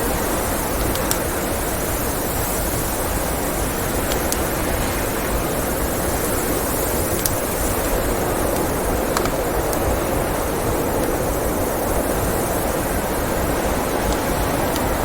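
Steady blizzard wind noise, with a few sharp crackles and pops from a wood fire scattered through it.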